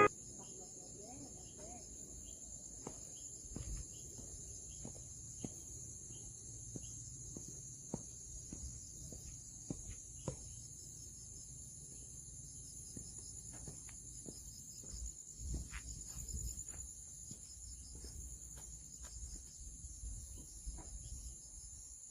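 Crickets chirping in a steady, high-pitched chorus, with scattered faint clicks and knocks.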